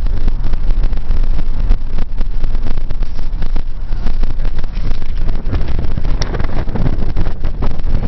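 Wind buffeting the microphone: a loud, steady low rumble with scattered small clicks.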